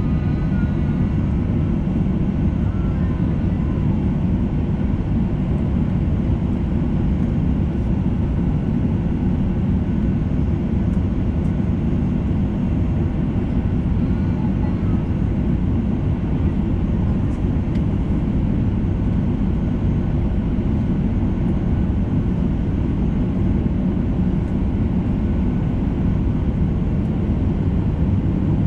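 Boeing 737-800's CFM56 jet engines at idle thrust before the takeoff roll: a steady, even low rumble.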